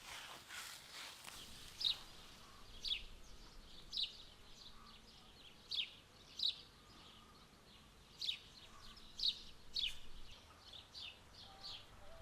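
A bird calling outdoors: short, sharp chirps that sweep downward in pitch, repeated roughly once a second, some louder and some fainter. A brief soft rustling hiss sits under the first second or so.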